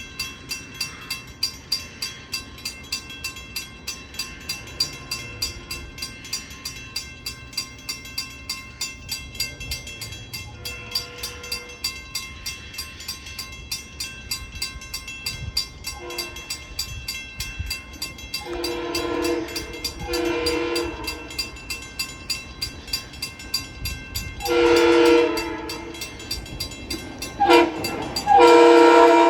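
Long Island Rail Road M3 electric train's horn: two short toots, then long, short, long, the last long blast the loudest. Under it a bell clangs steadily about twice a second.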